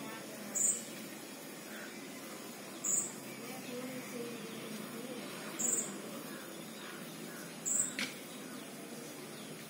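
A small bird's short, high-pitched chirp, repeated four times about two to three seconds apart, over steady background noise.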